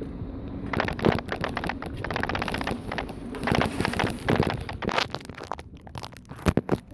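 Wind buffeting and rubbing on a handheld phone's microphone while riding a bicycle: an irregular crackling rumble, with a few sharp knocks near the end.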